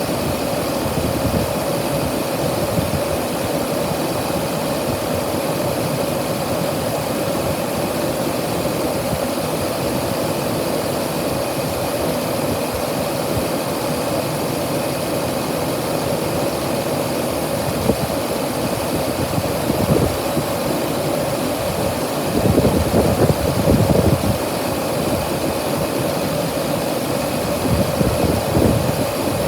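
2008 truck engine assembly idling steadily, with a few brief louder surges in the second half.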